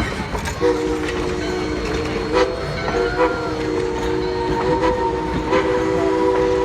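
Steam locomotive's chime whistle blowing one long blast of a steady three-note chord, starting about half a second in with a brief break after about two and a half seconds, against faint clicking train noise.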